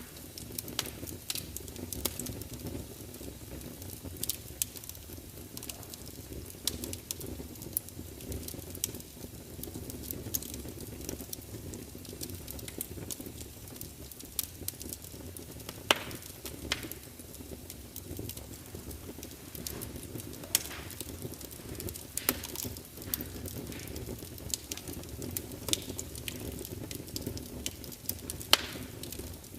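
Wood fire burning in a large open fireplace: a steady low rumble and hiss with irregular crackles and sharp pops from the logs, a few louder snaps now and then.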